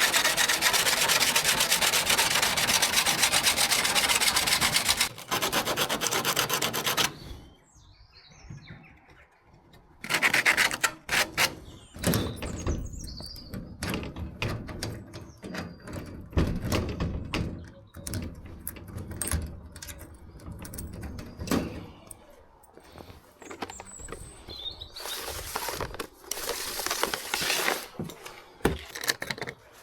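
Hard, fast rubbing on a surface for about seven seconds. Scattered knocks and scrapes of handling follow, and a second burst of rubbing comes near the end.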